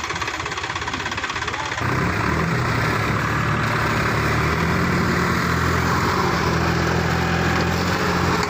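Tractor diesel engine running, then revved up about two seconds in and held at the higher, louder speed, as the driver tries to pull the tractor out of the mud.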